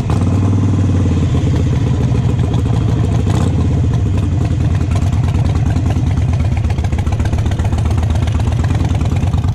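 Motorcycle engine running steadily with a fast, even firing pulse.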